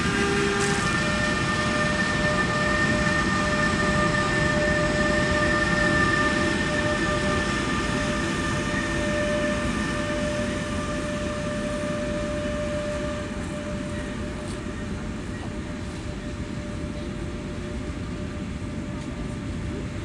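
Electric-hauled container freight train passing: a steady rumble and rattle of wagon wheels on the rails, easing slowly, with a steady high whine through the first half that fades away.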